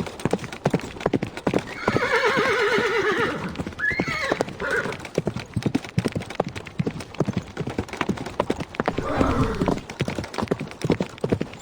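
Horse hooves clip-clopping throughout, with a long, quavering whinny about two seconds in and shorter calls around four and nine seconds in.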